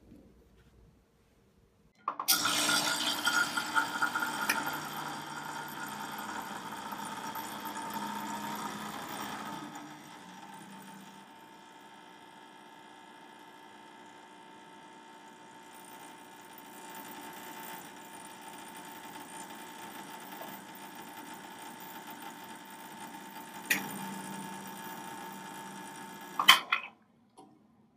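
Salvatore espresso machine's pump running as a shot is pulled, a steady mechanical buzz with a hum in it that starts suddenly about two seconds in. It is louder for the first several seconds, runs quieter after that, and cuts off sharply near the end, just after a couple of sharp clicks.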